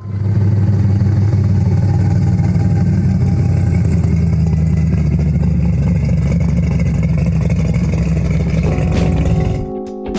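A car engine running loud and close, a deep steady rumble that cuts off suddenly near the end.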